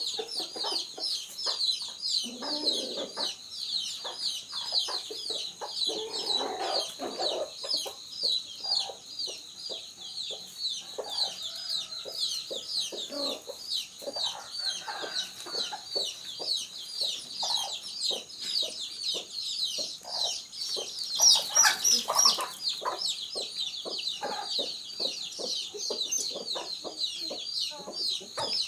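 A flock of chickens clucking, over a continuous run of quick, high cheeping, with one louder call about two-thirds of the way through.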